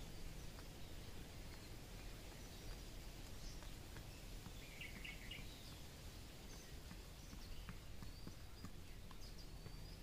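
Faint outdoor ambience of small birds chirping here and there, with a short cluster of chirps about halfway through. Light taps come from an Indian peafowl pecking grain off the ground, over a low rumble.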